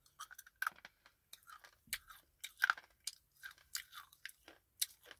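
A person chewing and crunching hard edible clay (white slate) with the back teeth: short, irregular crunches several times a second.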